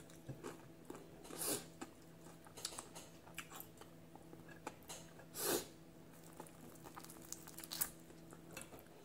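Close-up chewing of crispy fried tilapia and rice, with a few short crisp crunches, the loudest about halfway through. A low steady hum underneath stops near the end.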